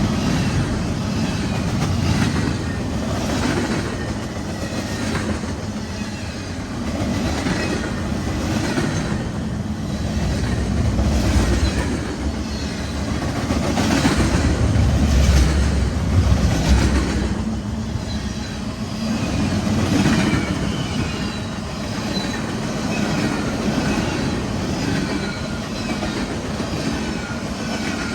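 CSX freight train's cars rolling past, wheels clattering over the rail joints in a regular rhythm of clacks about once a second over a steady rumble, with faint short wheel squeals.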